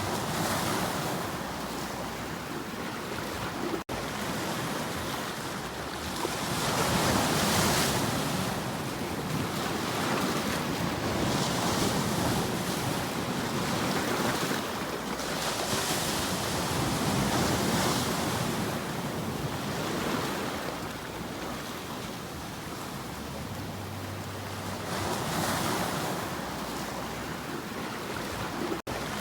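Sea waves surging and washing in, the rushing swelling and easing every few seconds, with some wind noise. The sound dips out for an instant about four seconds in and again near the end.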